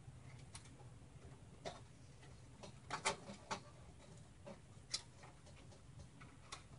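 Faint scattered clicks and taps of computer cables and plastic zip ties being handled while the cables are bundled together, with a short cluster of clicks about three seconds in.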